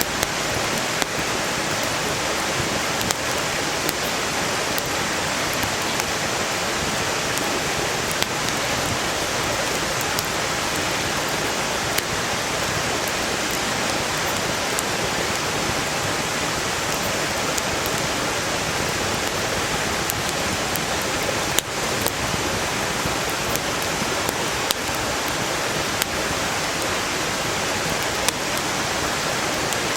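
Steady rush of a mountain stream, with scattered sharp crackles and pops from a wood campfire burning; one louder pop about two-thirds of the way through.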